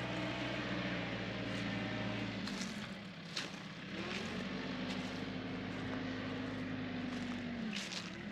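TYM 4815 tractor's diesel engine running at working revs, its pitch dipping briefly twice as it comes under load, with a few faint clicks.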